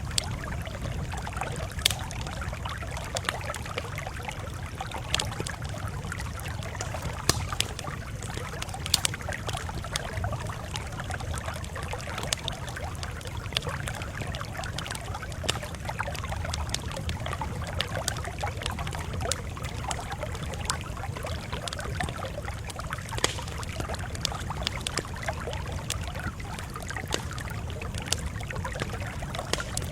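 Campfire crackling: irregular sharp pops and snaps, a few loud ones, over a steady low rumble of burning.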